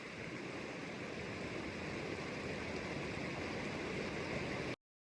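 Steady rush of falling water from a waterfall on a mountain stream. It cuts off abruptly near the end.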